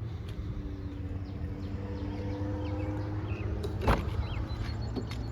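Steady low rumble of outdoor traffic with a faint steady hum, and one sharp knock about four seconds in.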